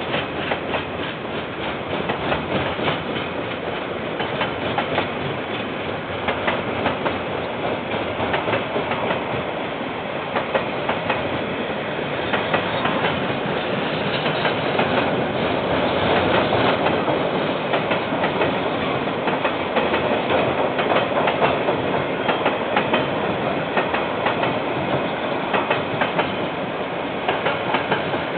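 A KiwiRail train rolling past, heard through a security camera's microphone: a steady rumble of wheels on track with a continual run of sharp clicks as the wheels cross the rail joints.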